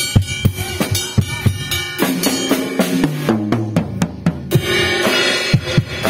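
Tama Swingstar drum kit played: a steady beat of kick and snare, then about two seconds in a fill down the toms, each hit lower in pitch, before the beat comes back with cymbals about four and a half seconds in. The drums are being checked after balancing.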